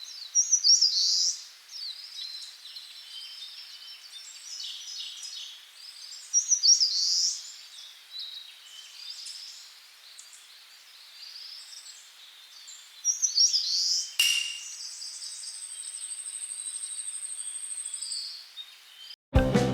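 Wild birds singing, several bursts of high chirping phrases. About fourteen seconds in, a sharp click, then a steady high thin tone held for about four seconds. Music with drums starts right at the end.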